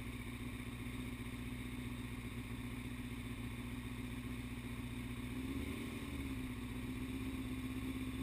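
A motorcycle engine idling steadily, its pitch wavering slightly a little past halfway.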